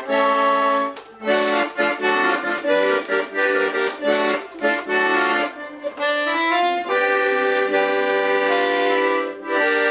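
Repaired Transivox accordion being played as a test: chords and melody notes, with a quick rising run about six seconds in and a chord held near the end.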